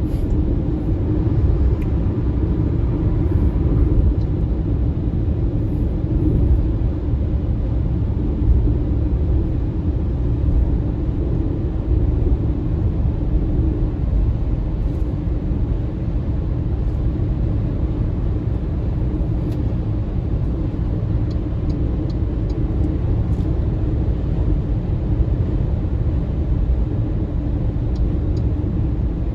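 Steady road and tyre rumble of an MG ZS EV electric car driving at speed, with no engine note.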